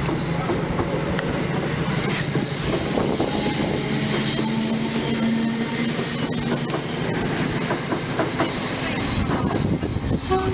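Freightliner freight train hauled by a Class 70 diesel locomotive passing through the station. The engine hums under a continuous clatter of wheels over the track, and from about two seconds in a steady high wheel squeal runs until near the end.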